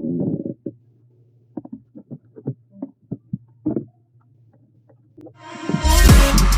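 Close-up mukbang eating sounds: chewing and lip smacks on fried tilapia, heard as short, scattered wet clicks over a faint low hum. About five seconds in, hip-hop-style music with heavy bass fades in and takes over.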